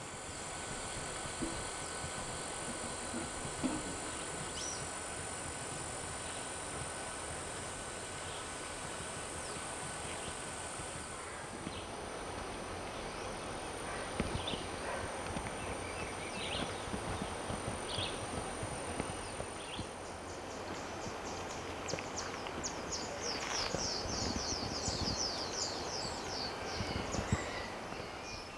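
Rural outdoor ambience: a steady background hiss with a thin, high steady tone for the first two-thirds and scattered short clicks and chirps. From about 21 seconds in, a fast high trill of short repeated calls runs for about six seconds.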